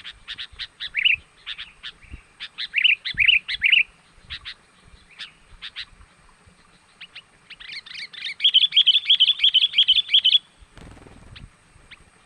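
Songbird lure call: groups of quick chattering notes, then a fast rapid trill of about three seconds near the end.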